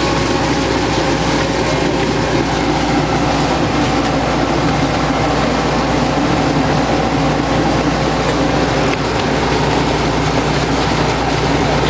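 A miniature park train running steadily with the rider on board: a continuous rumble and rattle of the cars rolling along the track.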